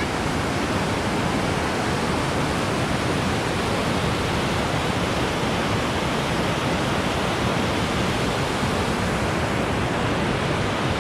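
Rushing water, a steady, even noise with no breaks, from a glacier-fed river or waterfall.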